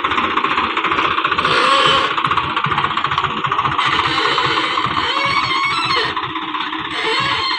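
Swaraj 735 XT tractor's three-cylinder diesel engine running, with a steady rapid pulsing.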